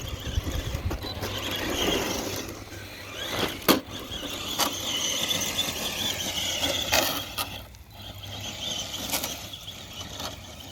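Castle 3800 kV brushless motor of a Traxxas TRX-4 Sport RC truck whining under throttle, its pitch wavering as the truck climbs a dirt mound, with a few sharp knocks from the truck.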